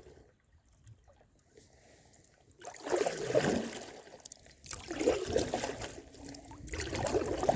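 Canoe paddle strokes in shallow water: after a quiet start, three swishing, sloshing strokes about two seconds apart.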